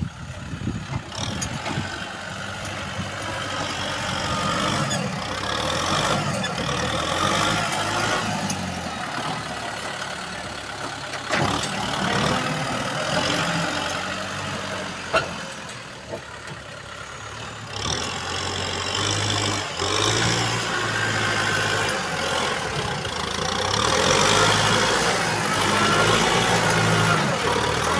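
Four-wheel-drive tractor engine running, its level rising and falling as the load changes, with two sharp knocks partway through.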